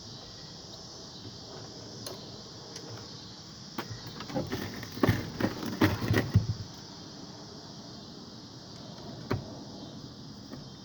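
Knocks and clatter of metal parts being handled during the teardown of an ice machine for scrap: a burst of sharp knocks about four seconds in lasting two to three seconds, then a single knock near the end, over a steady high hiss.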